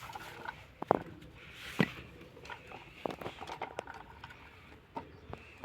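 Scattered sharp knocks and light clicks of hard objects being handled, the loudest about a second in and just under two seconds in.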